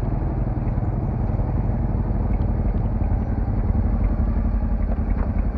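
Motorcycle engine running steadily, with no change in revs.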